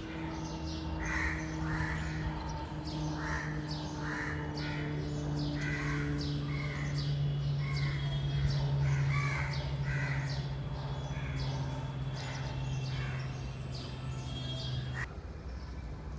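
Birds calling over and over in short harsh calls, about one or two a second, over a steady low hum that cuts off near the end.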